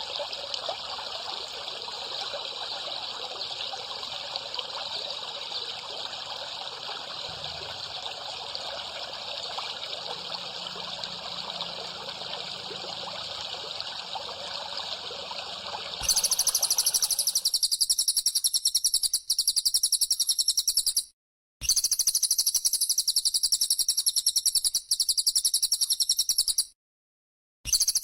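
Water trickling steadily. About halfway through, a loud, rapidly pulsing high-pitched bren cicada buzz cuts in, broken by two brief silences.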